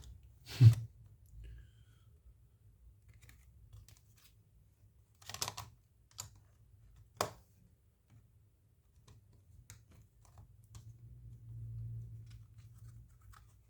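Light plastic clicks and taps of a smartphone battery and frame being handled and test-fitted into a new phone case, with one louder knock about a second in and a few sharper clicks in the middle.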